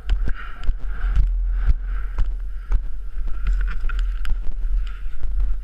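Heavy wind rumble on a rider's microphone while riding, with a steady whine and many scattered knocks and clicks.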